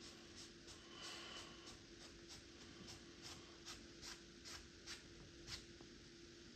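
Paintbrush stroking and dabbing paint on a canvas: faint, short scratchy strokes, about two or three a second, over a low steady hum.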